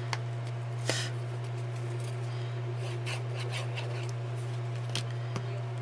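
A steady low hum under small paper-crafting handling sounds: light taps, clicks and paper rustles, with a brief rustle about a second in.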